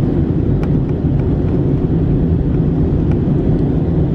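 Steady low rumble of an Airbus A319's engines and airflow heard from inside the passenger cabin, with a few faint ticks.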